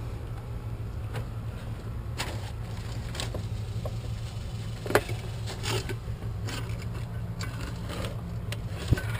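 Scattered clicks and light scrapes of hand work on the outlet and its parts, over a steady low hum.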